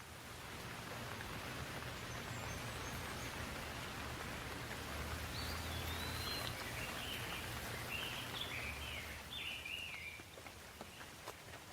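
Steady rain falling, an even hiss with a low rumble beneath it. Midway through, a bird chirps a quick run of short rising and falling notes, and a few sharp drips tick near the end.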